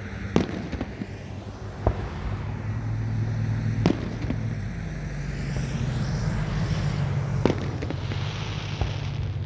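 Fireworks bursting overhead: sharp bangs every one to three seconds over a steady low hum.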